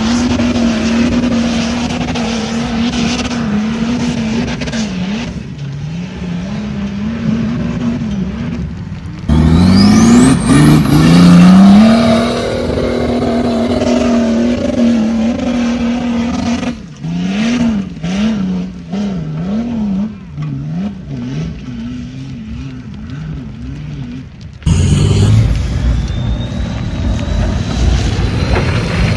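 Off-road vehicle engines revving hard, the pitch climbing and dropping again and again under load. The sound changes abruptly about nine seconds in, with a sharp upward rev, and again near the end, as one clip cuts to another.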